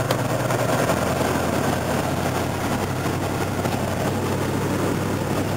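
Car driving through floodwater: a steady rushing and splashing of water against the body and underside, loud enough to cover the engine.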